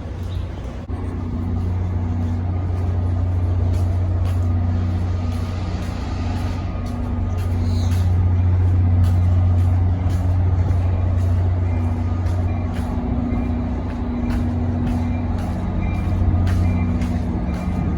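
Train running with a steady low hum and scattered sharp clicks, with a hiss of air about four to seven seconds in and a brief high squeal near eight seconds.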